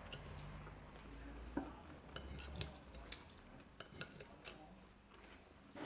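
Cutlery clinking against a plate: a scattering of light, irregular clicks and taps.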